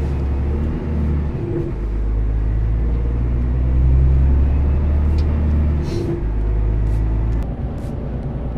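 Scania Super truck's 13-litre six-cylinder diesel engine under way, a deep drone heard from inside the cab. Its note shifts about a second and a half in and again near six seconds, and it eases off shortly before the end.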